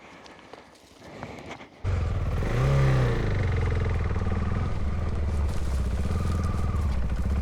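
A few light clicks and scrapes, then about two seconds in an adventure motorcycle's engine comes in suddenly. It revs once and runs steadily.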